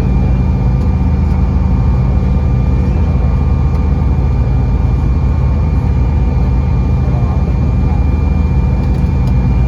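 Steady cabin noise inside a regional jet on the ground: a loud low rumble with a faint constant whine.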